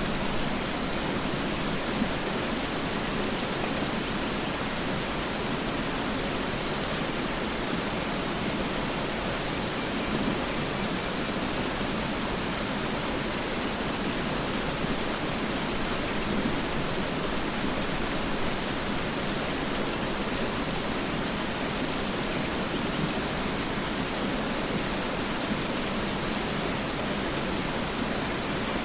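Mountain river rushing over rocks: a steady, unbroken wash of water noise.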